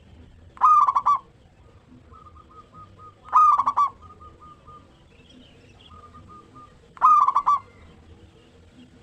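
Zebra dove (perkutut) cooing: three loud, rapidly stuttering calls about three seconds apart, with fainter short trilled coos between them.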